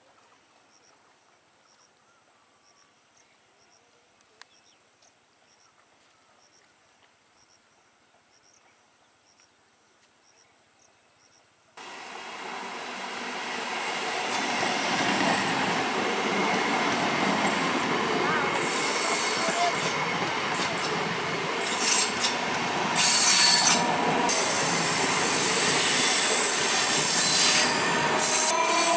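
Faint insect chirping over near quiet, then, about twelve seconds in, the loud rush of an Indian Railways electric multiple unit (EMU) local train passing close. Its wheels and carriages run over the rails, and high squeals come from the wheels rubbing the rail in the curve, loudest in the second half.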